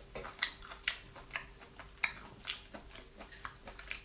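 Close-up eating sounds of someone chewing seafood: wet mouth smacks and clicks at irregular intervals, about two a second.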